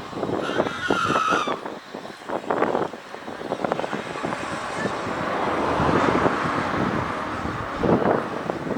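Railway train running past: a brief, high metallic squeal about half a second in, lasting around a second, then a rising rush of running noise with scattered clicks that peaks a little past the middle.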